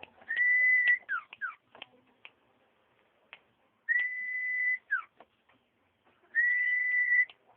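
Common iora (cipoh) singing: three long steady whistles on one pitch, each just under a second and a few seconds apart, the first two followed by a short falling note, with scattered short chips in between.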